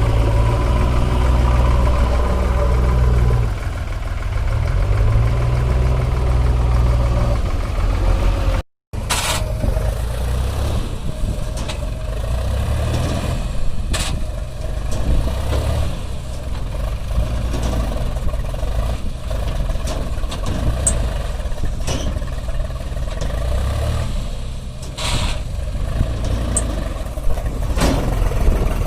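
Heavy diesel engine running steadily. The sound cuts out for a moment about nine seconds in, and scattered sharp knocks follow as the engine keeps running.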